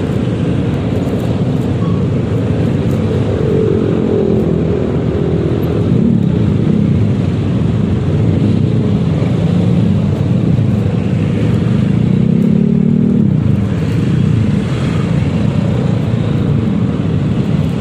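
Riding a Yamaha XMAX 300 scooter in traffic: the single-cylinder engine and road noise rise and fall in pitch several times as it speeds up and eases off, amid the sound of surrounding traffic.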